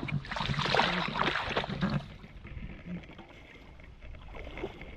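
Water splashing loudly for about two seconds, then settling to a quieter, steady rush of flowing water.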